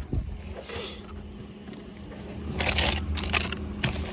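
Crinkling, crunching handling noises, clustered about two and a half to three and a half seconds in, over a steady low hum.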